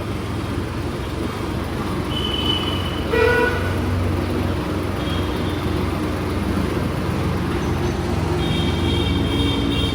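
Tractor engine running steadily under load, hauling a loaded water tanker downhill. A short horn toot sounds about three seconds in, and high steady tones join near the end.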